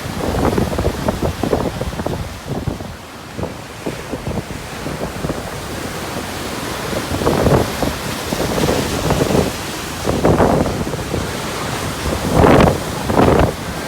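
Storm waves on the Black Sea surging and breaking, with wind buffeting the phone's microphone in irregular gusts; the strongest gusts come near the end.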